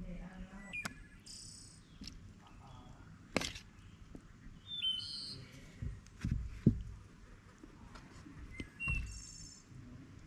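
Birds chirping with short high calls now and then, among a handful of sharp knocks and clatters, the loudest about two-thirds of the way through.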